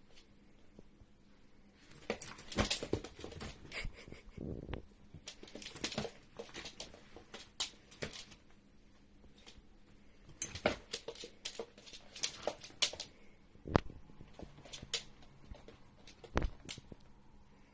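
Pets play-fighting: irregular scuffles, clicks and thumps in bursts, with short lulls between them.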